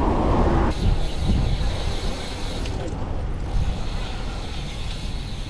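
Bicycle rear hub's freewheel ticking while the bike coasts, over steady wind and road rumble.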